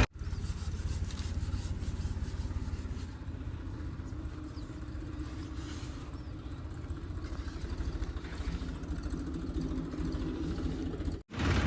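Diesel engine of a backhoe loader or tractor running steadily, an even rumble of rapid firing pulses.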